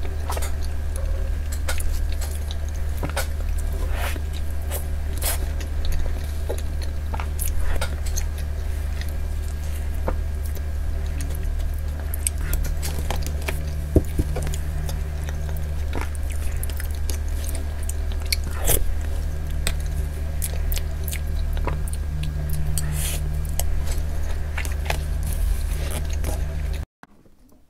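Close-miked chewing and mouth sounds of someone eating a soft cream-topped cake with tapioca pearls, with scattered small clicks, over a steady low hum. The sound cuts off abruptly near the end.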